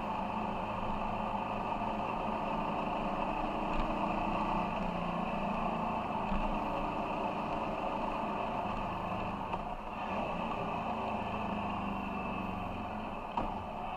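Ducati Monster 696's air-cooled L-twin engine running at low road speed, its note shifting a few times with throttle and gear changes. There is a single short knock near the end.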